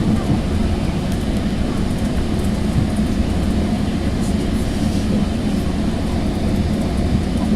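Sounder commuter train heard from inside a passenger coach while under way: a steady rumble of the running gear and locomotive, even throughout with no rail clicks standing out.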